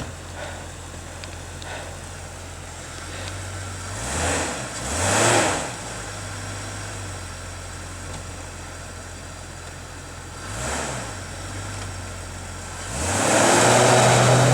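Jeep Cherokee engine running low, then revving in surges, two close together about four seconds in, one around eleven seconds, and a longer, louder one near the end, each with a rush of spinning tyres in snow. The four-wheel-drive Jeep is stuck in deep snow and being rocked forward and back to break through.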